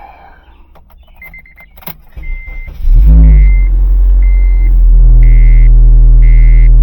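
A Honda car's engine is started: a brief crank about three seconds in, a quick rise in revs as it catches, then it settles into a steady idle. A dashboard warning chime beeps about once a second throughout.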